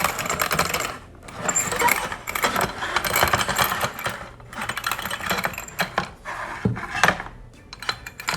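Scribing tool being run along a rough stone fireplace to trace a board, a dense rattling scrape full of clicks in spells with short breaks, thinning to scattered clicks near the end.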